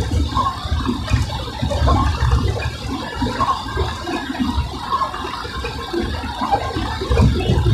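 Steady watery hiss of a car driving on a rain-wet road, with a low rumble underneath.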